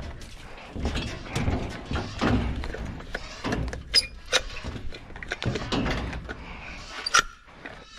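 A tankless water heater's vent pipe being worked through its hole in the wall: irregular scraping and rubbing, with a few sharp knocks, two about halfway through and one near the end.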